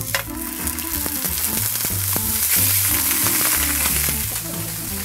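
A frozen salmon fillet laid into a non-stick pan of hot olive oil, sizzling and spitting grease as it starts to sear. The sizzle sets in at once and grows louder toward the middle. Background music with a bass line plays underneath.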